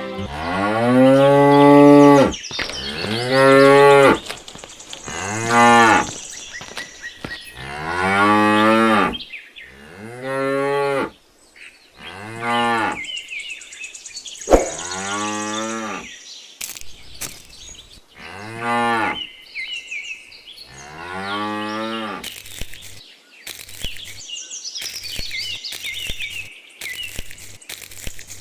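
Cattle mooing: about nine long calls, each sliding down in pitch, with birds chirping faintly behind. Near the end the mooing stops and a series of sharp clicks comes in among the chirps.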